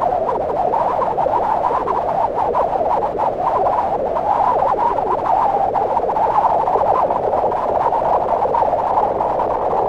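Synthesized wind made in Max from filtered noise: a steady, airy rushing sound centred in the middle range, wavering slightly without gusts or breaks.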